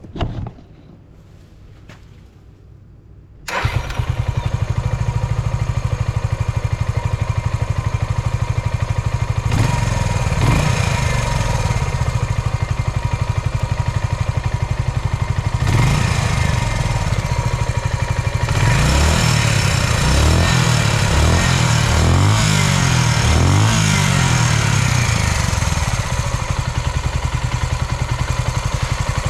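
Suzuki Volty's 250 cc single-cylinder four-stroke engine starting about three and a half seconds in and settling into an idle, blipped a few times and then in a quick run of short revs in the second half. It runs with no abnormal noises.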